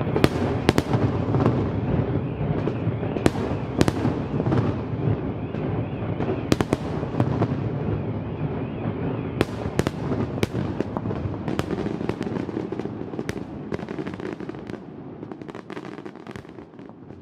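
Fireworks going off in rapid succession: a dense, continuous rumble of bursts with sharp cracks several times a second, dying away gradually toward the end.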